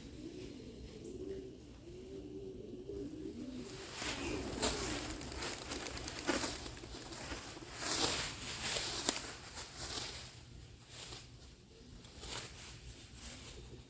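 Pigeons cooing, low and warbling, joined from about four seconds in by a run of loud rustling, whooshing bursts that fade out near the end.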